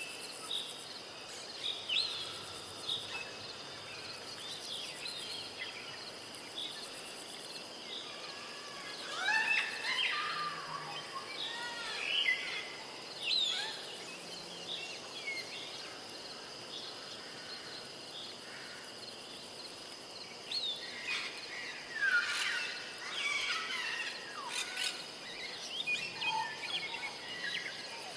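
Tropical rainforest ambience: assorted birds chirping and calling in short rising and falling notes, busiest in two flurries, one about a third of the way through and another near the end. Underneath runs a steady high-pitched insect drone.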